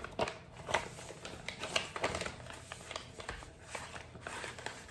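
Sheet of paper being folded and creased by hand, with short irregular rustles and crinkles.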